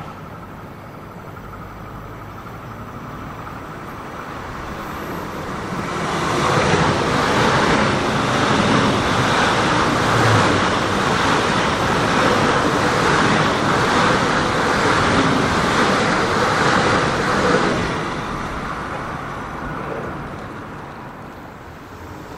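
ICE high-speed electric train passing close below, its wheels running on the rails. The noise builds over a few seconds, holds steady and loud for about twelve seconds, then dies away.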